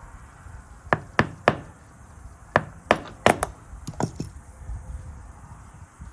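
Small metal lock parts being handled and tapped: a quick run of about nine sharp clicks and knocks, some in close pairs, between about one and four and a half seconds in.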